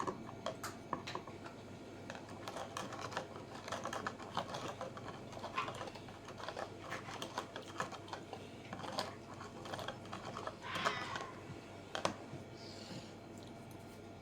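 Irregular light clicks and short scratchy rustles, tapping along unevenly with brief busier clusters around the middle and a sharp click near the end.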